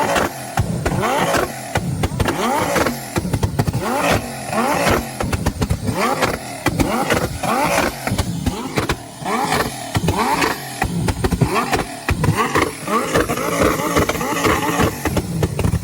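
Sports car engine revved hard over and over in quick succession, its pitch climbing with each rev, with sharp pops and crackles between the revs. The sound cuts off abruptly at the end.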